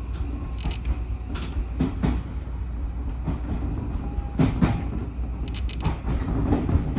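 Odakyu 1000 series electric train running, heard from inside the car: a steady low rumble with wheels clacking over rail joints, the clacks coming in pairs at irregular gaps.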